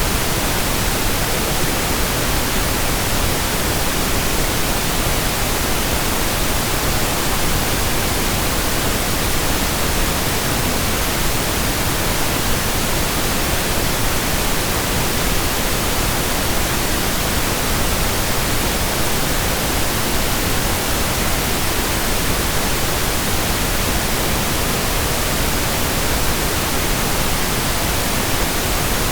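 Steady pink noise: an even, unchanging hiss spread across all pitches, with no tones, voice or music.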